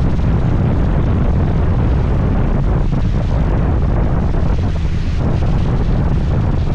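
Wind buffeting the microphone of a moving scooter: a loud, steady low rumble, with the scooter's road and engine noise mixed in underneath.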